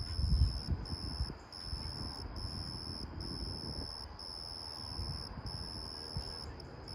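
Night insects singing, a high steady trill in phrases of about a second with short breaks between, repeating evenly. A low rumble sits underneath, strongest in the first second and a half.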